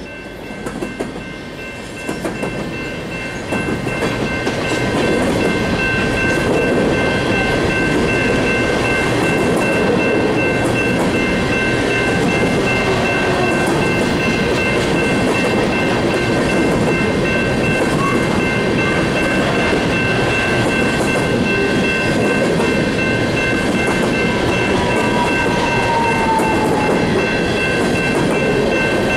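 Empty coal cars rolling past on a curve: a steady rumble and clatter of steel wheels on rail, building over the first few seconds. Steady high squealing tones run over it throughout, typical of wheel flanges grinding on a tight curve.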